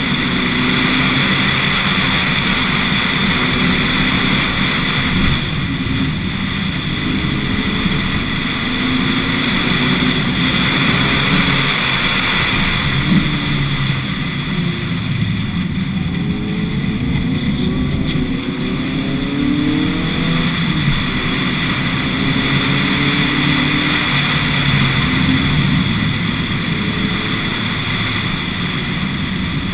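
Lotus Elise S1 111S's mid-mounted 1.8-litre Rover K-series VVC engine, running on bioethanol, driving hard up a winding mountain road: the revs rise and fall with the throttle and gear changes, over a constant rush of noise.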